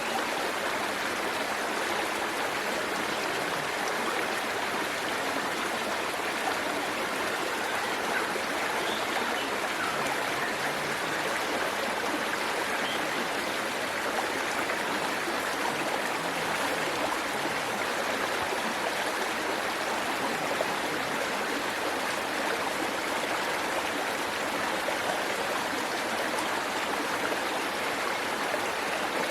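Steady rushing and splashing of a waterfall, an even wash of falling water with no breaks.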